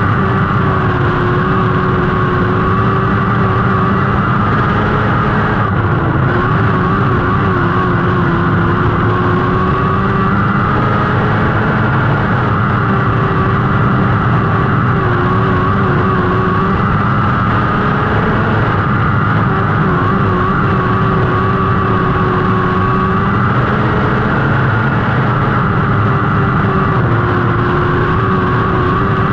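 Lightning sprint car's 600cc motorcycle engine running hard at high revs, loud and continuous. Its pitch dips and climbs again every few seconds as the throttle is eased and reapplied through the turns.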